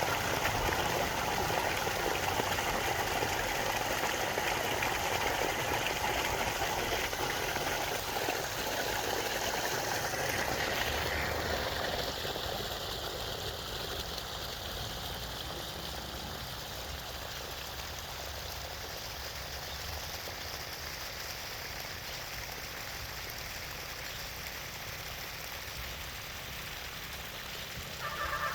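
Heavy rain falling, a steady hiss of rain noise that is loudest for the first dozen seconds and then eases to a lighter, even patter.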